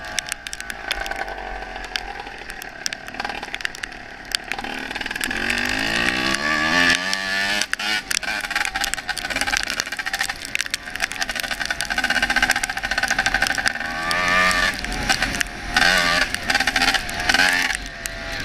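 Honda CR250 two-stroke dirt bike engine running under a rider, revving up steeply about five to seven seconds in and rising and falling again later.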